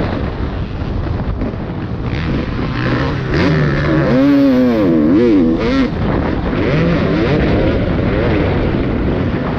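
Motocross bike engine revving hard up and down, with wind noise on the microphone. The revs rise and fall quickly several times, loudest around the middle.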